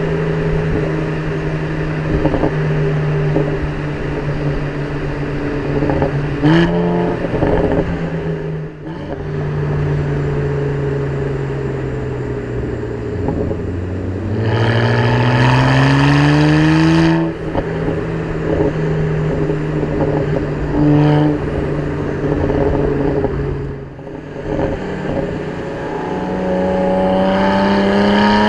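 BMW 335is twin-turbo inline-six engine running while driving, mostly at a steady cruise. About halfway through, the engine note climbs for about three seconds under a hard pull, then drops at an upshift. It starts climbing again near the end.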